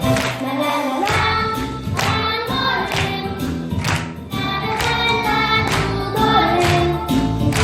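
A group of young children singing together in unison with a backing accompaniment.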